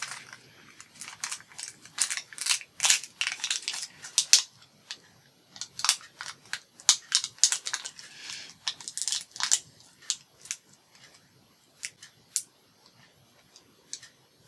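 Hands peeling and handling self-adhesive Velcro dots and their paper backing: a run of sharp crackles and clicks, dense for the first few seconds and sparser later, with a brief rustle partway through.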